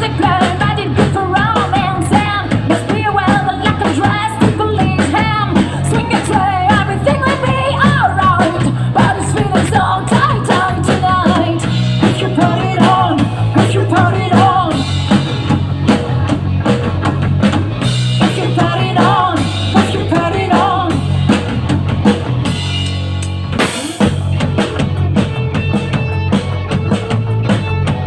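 Rock band playing: drum kit and bass under a wavering vocal melody. Near the end the music thins out briefly before guitar and drums come back in.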